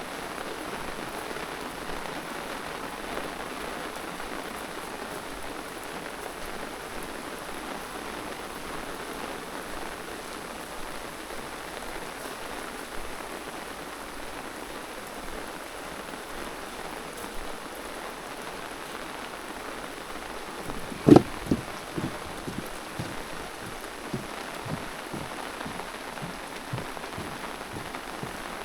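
Steady rain falling. About two-thirds of the way through there is one sharp, loud knock, followed by a few lighter taps.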